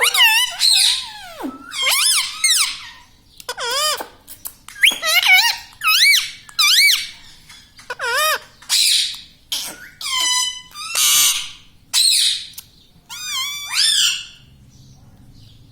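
Indian ringneck parakeet giving a run of shrill, wavering squawks and chatter, roughly one call a second, stopping shortly before the end.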